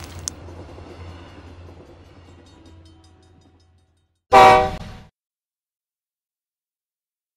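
A low rumble fades away over the first few seconds, then a single short train horn blast of under a second sounds loudly and cuts off.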